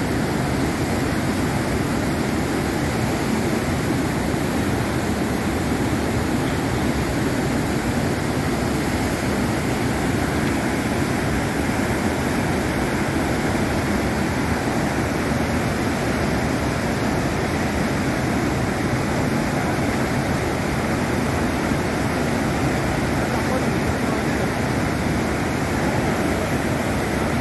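Iguazu Falls: the steady, unbroken rush of a massive waterfall, a constant wash of noise with no change or break.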